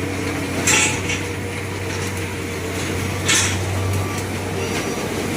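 A heavy machine's engine running with a steady low hum, broken by two short, sharp bursts of noise about two and a half seconds apart.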